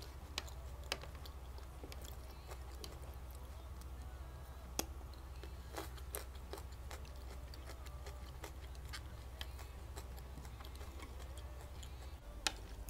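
Close-up chewing of a seaweed-wrapped sushi roll (kimbap) with the mouth closed, with scattered sharp little clicks dotted irregularly through it, over a steady low hum.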